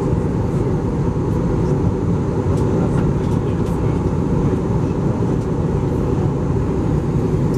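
Steady cabin noise inside an Airbus A320 during descent: an even, deep rush of engine and airflow noise that does not change.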